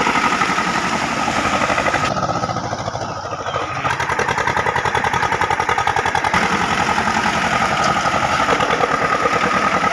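Sonalika DI 730 tractor's diesel engine running steadily, close by, with a softer, duller stretch between about two and four seconds in.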